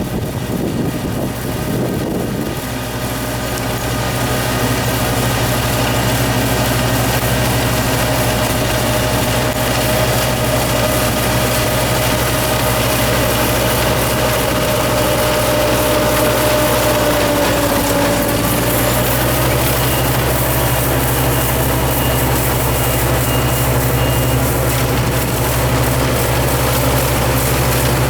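Yanmar Ee214 combine harvester running steadily with a low engine hum and a mid-pitched whine. A run of short high beeps sounds for a few seconds past the middle.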